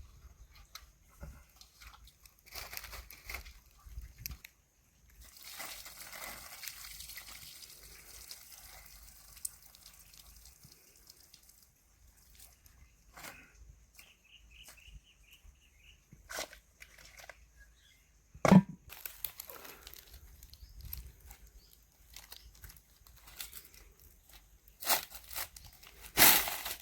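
Food-preparation handling noises: scattered knocks and rustling, crinkling sounds, with a few seconds of hiss early on and one sharp, loud knock about two-thirds through.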